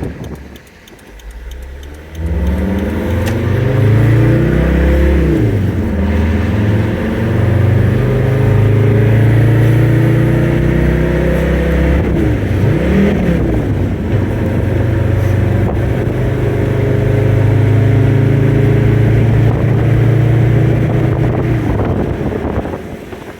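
Mercedes turbo diesel engine in a Toyota 4Runner pulling away from idle and accelerating, its pitch climbing and then dropping at two gear changes. It then holds a steady drone under load until easing off near the end.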